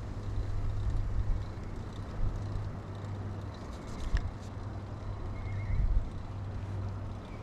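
Riding noise of a 2000 Kona Blast mountain bike heard from a chest-mounted camera: steady low rumble of wind and tyres on the road, with a few sharp clicks about four seconds in.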